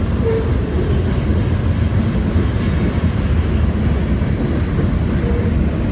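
CSX freight train cars rolling past on the rails, a steady low rumble of wheels and cars.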